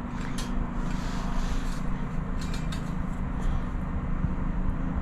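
A steady low mechanical hum from a running machine, with a few faint clicks from a ceramic tile being handled and marked.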